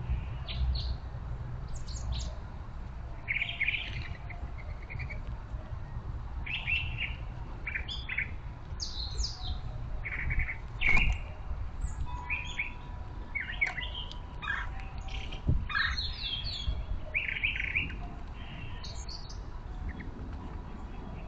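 Small birds chirping and calling in short, repeated notes. Two sharp knocks come near the middle, the first the loudest sound, over a steady low rumble.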